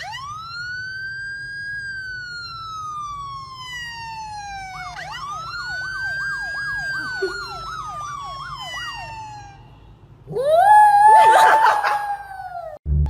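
Siren wailing: a long rise and slow fall in pitch, then a second wail with a fast up-and-down yelp running over it. About ten seconds in, a louder, shorter rising tone with crackling noise follows, the loudest part.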